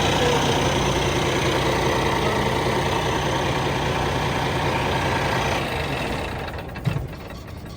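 Heavy truck engine running steadily at an even pitch, fading out about six seconds in.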